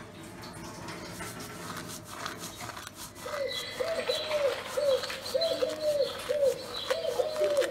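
A bird calling in a quick run of short, repeated notes, about two or three a second, starting about three seconds in, with fainter higher chirps over them.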